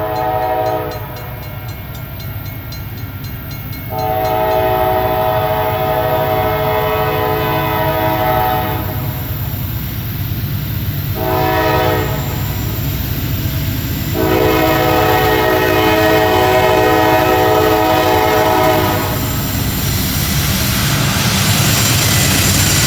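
Norfolk Southern freight locomotive sounding its multi-tone air horn: the tail of one blast, then a long blast, a short one and another long one, the long-long-short-long pattern blown for a grade crossing. A steady low rumble of the locomotives' diesel engines runs underneath, and the rush of the train rolling past grows louder near the end.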